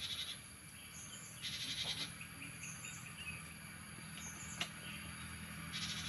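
Cinereous tits giving short buzzy, rattling chatter calls in bursts: right at the start, about a second and a half in, and again near the end, with thin high chirps between. A steady high insect hiss runs underneath.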